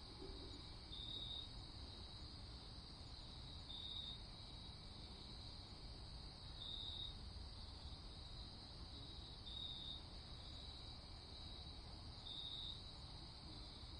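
Crickets chirping steadily at night, with a brighter, louder trill swelling about every three seconds, over a faint, even low rumble.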